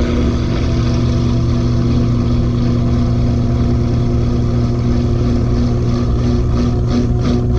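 LG 18 kg front-loading washing machine in its final spin, its heavily overloaded drum turning at high speed: a steady motor hum under a rushing whoosh.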